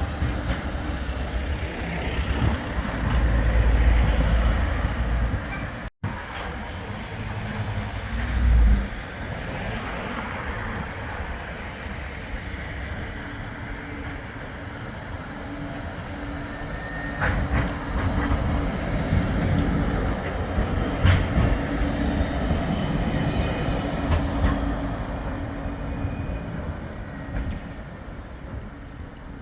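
Flexity 2 tram running past, a low rumble with a steady hum, with louder surges of rumble. The sound cuts out for an instant about six seconds in, then carries on.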